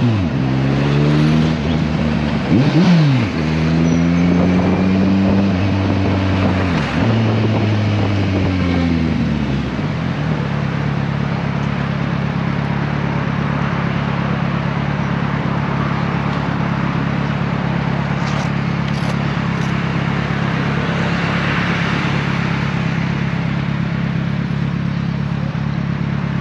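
Kawasaki Versys 1000 LT's inline-four engine on the move: its pitch rises and falls with throttle and gear changes for about the first ten seconds, then holds a steady drone at a constant road speed.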